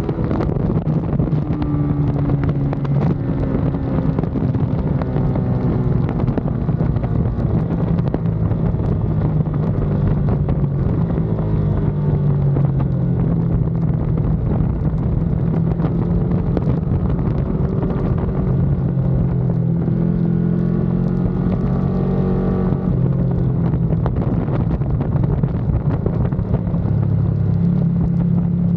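Ducati Panigale V2's 955 cc V-twin engine running hard on track, its pitch rising and falling repeatedly as the bike speeds up and slows, with wind rushing over the microphone.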